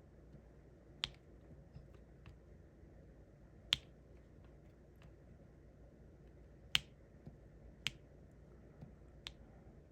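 Diamond-painting drill pen pressing resin diamonds onto the sticky canvas: five sharp clicks at uneven intervals, spaced one to three seconds apart, over faint room tone.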